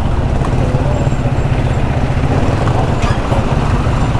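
Hero XPulse 200 motorcycle's single-cylinder engine running steadily while riding, mixed with wind rushing over the microphone.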